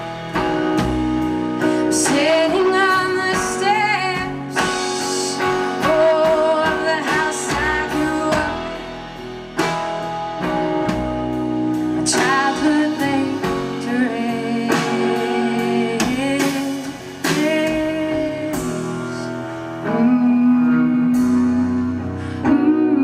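Live band music: plucked guitar with a melodic voice singing over it.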